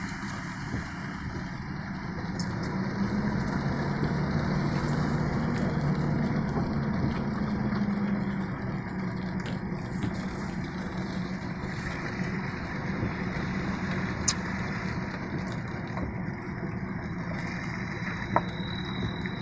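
Motor vehicle driving: steady engine and road noise, with the engine note swelling for several seconds early on before settling. A few sharp clicks.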